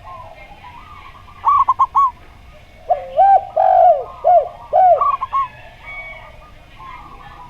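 Zebra dove and spotted dove cooing. A quick run of four higher coos comes about a second and a half in, followed by a run of lower, deeper arched coos from about three to five seconds in.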